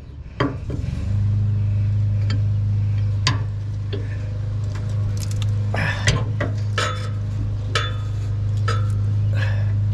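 Light metallic clinks and knocks, like metal parts being handled, over a steady low hum that starts about a second in.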